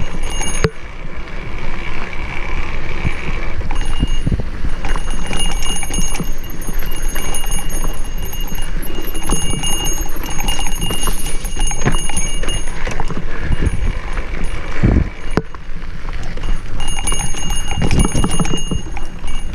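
Wind buffeting the microphone while a mountain bike rattles and clatters over rough singletrack, with a steady run of knocks and a few heavier thuds around 15 and 18 seconds in.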